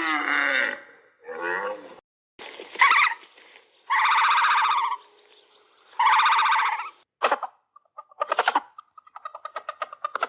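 A series of farm animal calls: several separate calls of up to about a second each, then a fast stutter of short pulses near the end.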